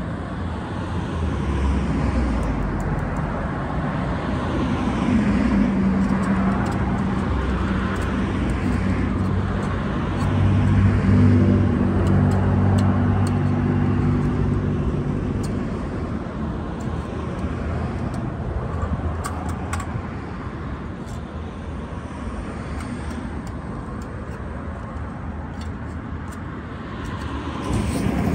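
Road traffic: cars passing by, each swelling and fading, with one vehicle's engine hum loudest about a third of the way through.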